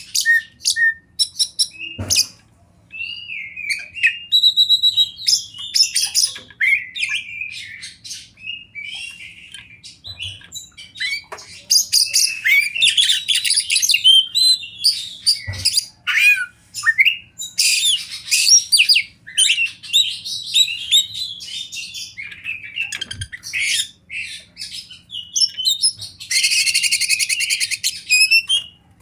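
Oriental magpie-robin singing a long, varied song of quick whistles, chirps and trills with hardly a pause, ending in a dense buzzy rattle near the end. A few sharp clicks fall among the song.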